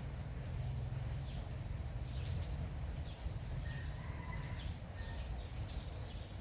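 Birds chirping in short, repeated high calls over the steady hiss of light rain and a low rumble.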